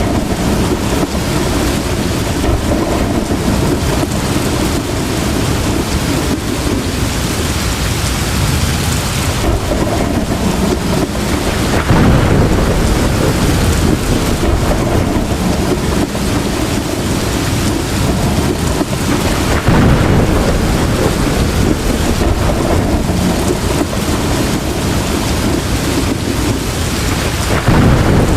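Heavy, steady rain pouring down, with low rolls of thunder swelling up a few times, about 12 and 20 seconds in and again near the end.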